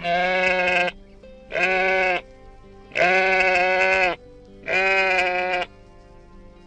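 Sheep bleating four times in a row, each bleat lasting about half a second to a second with short pauses between.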